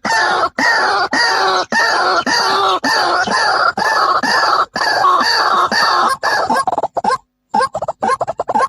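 White-breasted waterhen calling: a loud, fast series of repeated downward-sliding notes, about three a second. Near the end the series breaks off briefly, then resumes as quicker, shorter notes.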